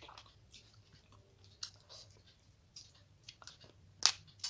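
Mouth sounds of eating by hand: chewing a mouthful of rice and fish, with wet lip smacks and short clicks. The loudest is a sharp click about four seconds in.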